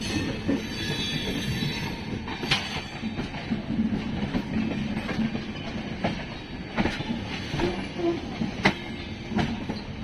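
A passenger train running on the rails: a steady rumble with a high wheel squeal in the first couple of seconds and several sharp clanks along the way.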